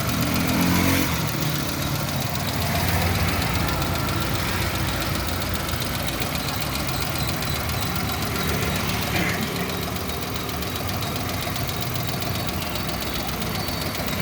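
Maruti Suzuki Alto's petrol engine running, revving briefly about a second in and then settling back to a steady idle. The engine makes an unwanted noise.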